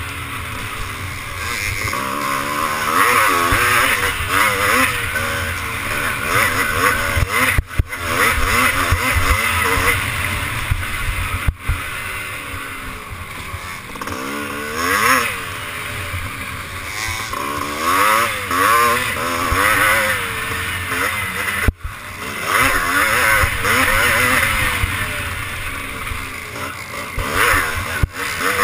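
Motocross bike engine revving up and down over and over, its pitch repeatedly rising and falling, as it is ridden hard round the track.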